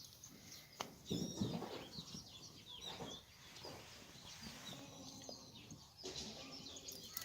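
Small birds chirping again and again, high and short, with a click and a brief louder rustling noise about a second in.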